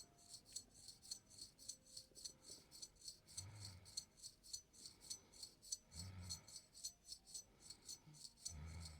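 Straight razor scraping over a man's face in quick short strokes, about four or five a second, soft and crisp. Three short low sounds come between, roughly every two and a half seconds.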